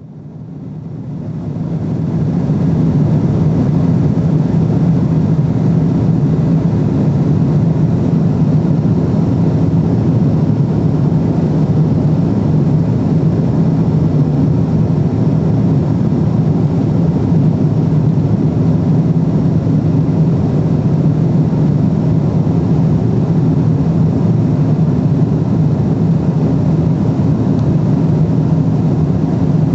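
Cabin noise of a Boeing 777-300ER in cruise: a steady, low drone of engines and rushing air heard from inside the cabin. It fades in over the first two seconds and then holds level.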